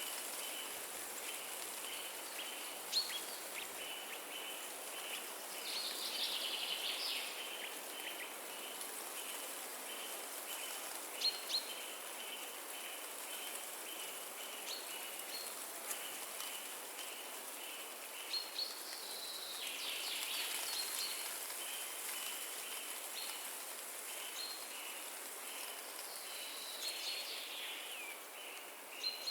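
Forest ambience: a steady rushing of wind through the trees, with a high chirp repeating about twice a second and scattered short bird calls. Busier bursts of birdsong come about a quarter of the way in and again around two-thirds through.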